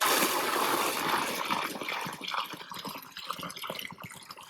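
Water gushing from the rain-collection tank's spigot into a container. The flow starts suddenly and is loudest in the first second or two, then grows quieter.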